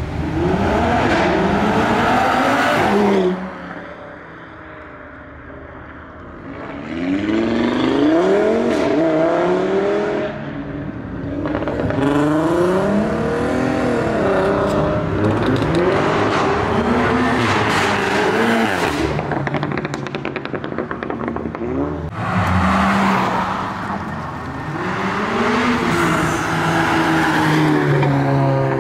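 Several performance cars accelerating hard away one after another, engines revving up through the gears with pitch rising and dropping at each shift, with some tire squeal. A brief lull about four seconds in before the next car pulls away.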